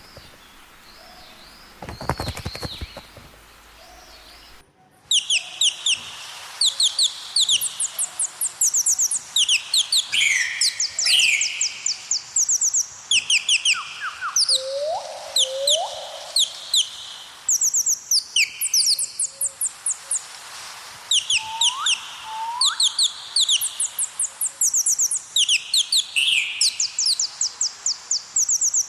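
Birds chirping: rapid trills of short high chirps repeating over and over, with a few rising whistled notes among them. The birdsong starts about five seconds in, after a short burst of sound near the start.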